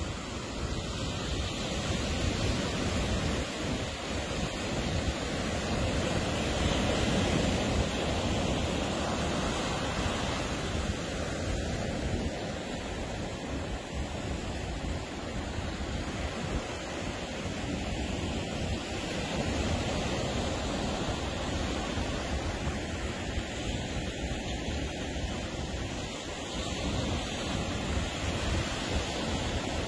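Ocean surf washing onto a beach: a continuous roar of breaking waves that swells and eases every several seconds.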